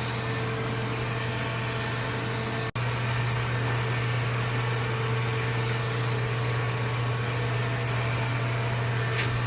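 Robot vacuum running, a steady motor hum and whir. The sound cuts out for an instant about three seconds in, then carries on unchanged.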